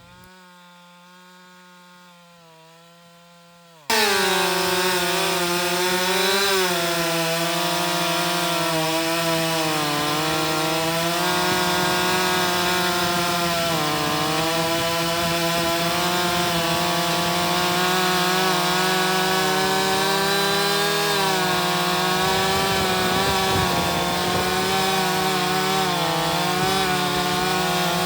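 Two-stroke chainsaw cutting through wood, heard faintly at first and then suddenly much louder about four seconds in. Its high engine note sags and recovers as the chain bites under load.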